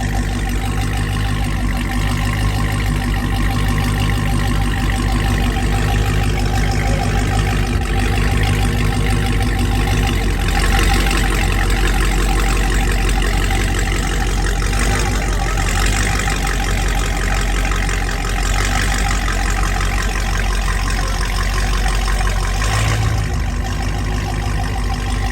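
Car engine idling with a steady, deep exhaust rumble, swelling slightly about ten seconds in and again near the end.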